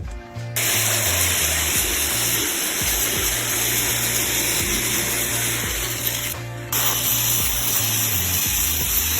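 Power sander running against the face of an old wooden board, a steady loud hiss that cuts out briefly about six and a half seconds in and starts again.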